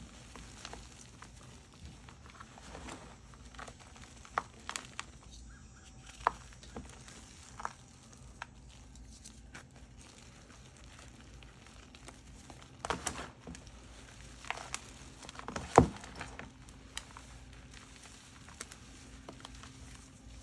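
Gym chalk being crushed, giving scattered crunches and crumbly crackles with gaps between them. The loudest crunch comes a little before 16 s, after a cluster of crunches around 13 s.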